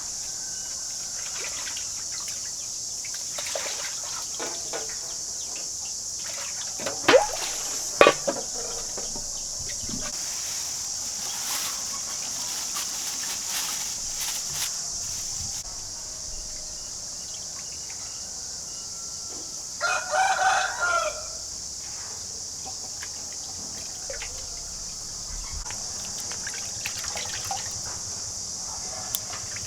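A rooster crows once, about twenty seconds in, over a steady high hiss. Two sharp knocks sound a few seconds earlier.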